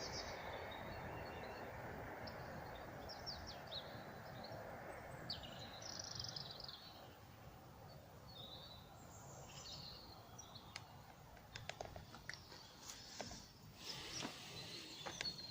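Small songbirds chirping in short, scattered calls over a low steady background rumble that thins out about halfway through. Near the end, a run of sharp clicks.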